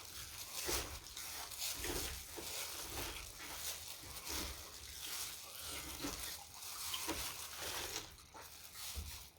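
Close-miked mouth sounds of someone eating: wet chewing and smacking in irregular short bursts.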